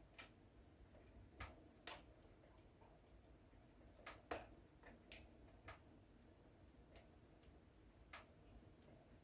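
Wood fire in a fireplace crackling quietly: sharp, irregularly spaced pops and snaps over a faint low hiss, the loudest pop about four seconds in.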